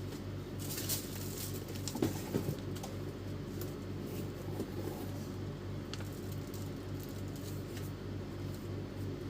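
Light clicks and taps of small printer parts being handled, the sharpest about two seconds in, over a steady low hum that pulses a few times a second.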